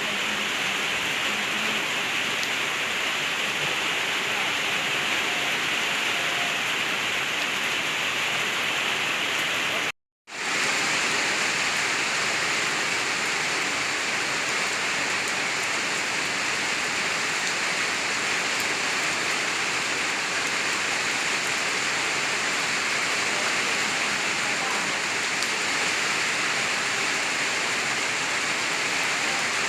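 Heavy rain falling steadily, a dense even hiss, briefly cut off for a moment about ten seconds in.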